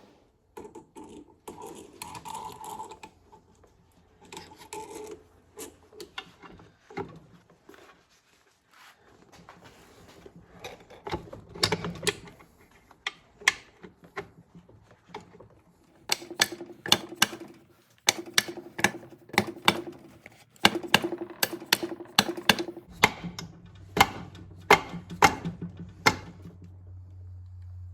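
Hand tools working metal: scattered clinks, then from about halfway in repeated bursts of quick ratchet-like clicking as the set screw is driven into the 1/2 shift fork of a Ford toploader four-speed transmission.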